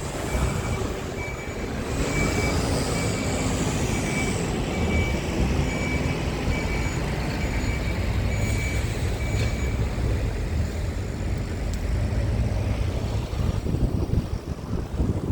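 Scania R tractor unit's diesel engine running steadily, with a thin electronic beep repeating about twice a second that stops about ten seconds in.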